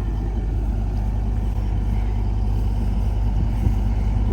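A vehicle engine running steadily, a low, even rumble that does not change.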